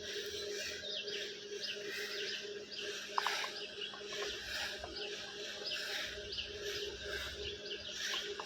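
Birds chirping in forest, many short repeated calls over a steady background hiss, with a brief click about three seconds in.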